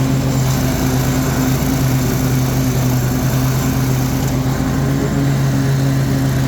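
Toro Titan ZX4800 zero-turn riding mower running steadily at high throttle with its three-blade 48-inch deck engaged, driving through and cutting tall grass. The engine, which the owner believes is a 24 hp Kohler Command, gives a steady hum under the whir of the blades.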